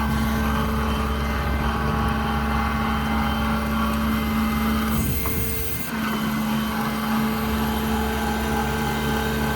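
Cummins diesel of a Ram 5500 service truck running steadily under the load of the IMT crane's hydraulics as the crane is operated, a constant drone with a steady hum. About five seconds in the drone briefly drops away and changes pitch for about a second, then picks up again as a crane function restarts.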